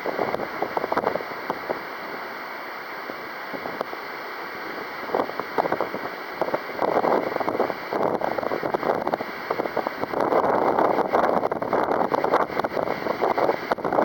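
Strong, gusty wind buffeting the microphone in uneven surges. It eases off briefly, then picks up again from about five seconds in and is loudest near the end.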